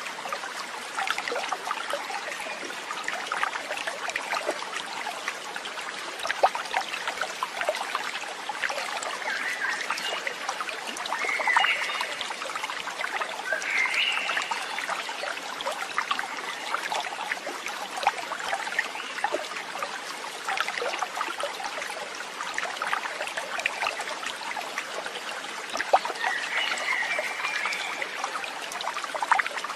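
Water trickling and babbling in a small stream, with a few short chirping calls.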